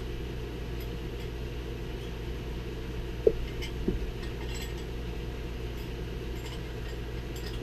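Two short metallic clinks, about half a second apart a little past three seconds in, from differential parts and shims being handled on the bench. A few faint light clicks lie under them, over a steady low hum.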